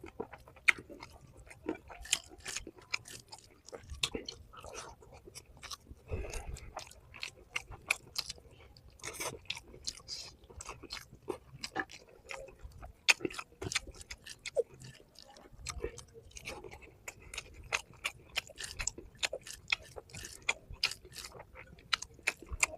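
A person eating curry and rice close to the microphone: chewing and biting with many quick, irregular mouth clicks and wet smacks.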